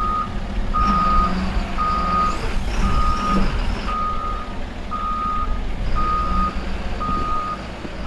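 Vehicle reversing alarm beeping steadily, one half-second beep about every second, over the low rumble of a running engine.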